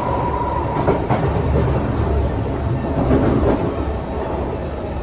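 Inside a Kawasaki C151 metro train running between stations: the steady rumble of the wheels on the rails, with a few clacks over the track. A steady high tone fades out about a second in.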